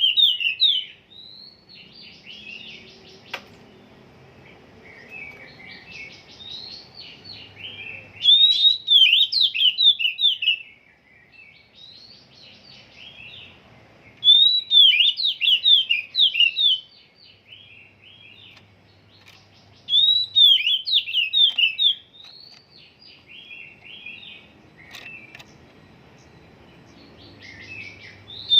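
Oriental magpie-robin (kacer) singing: loud, varied whistled phrases about two to three seconds long come roughly every six seconds, with softer twittering in between. The bird is still settling its song.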